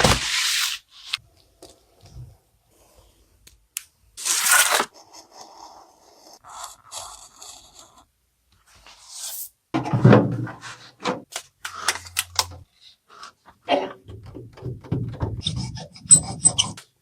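Irregular hand-work noises: bursts of rubbing and scraping with scattered clicks and knocks.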